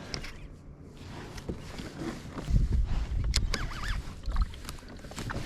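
Handling noise in a kayak: knocks and rubbing against the hull. In the middle stretch there is a loud low rumble with a few short squeaks.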